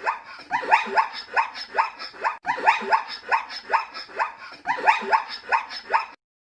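Zebra calling: a rapid series of short barking yelps, about three to four a second, each falling in pitch, in three runs with brief breaks. The calls cut off suddenly near the end.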